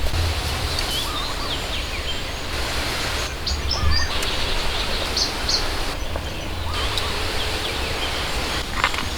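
Woodland ambience: a steady hiss with wind rumbling on the microphone and scattered short bird chirps.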